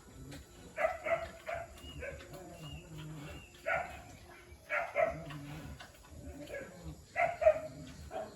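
Short, sharp animal calls in four quick clusters, about a second and a half apart, typical of barking.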